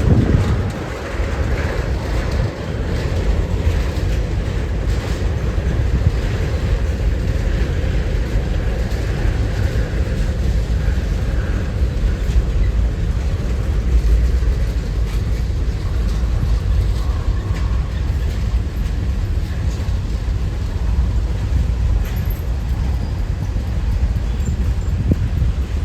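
A train passing by, mixed with strong wind buffeting the microphone in a steady low rumble.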